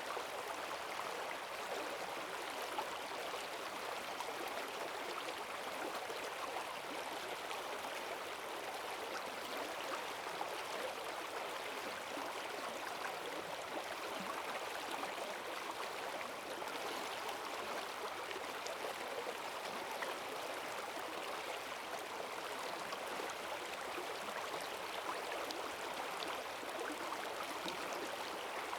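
Forest stream running high after heavy rain: a steady rush of water over the streambed.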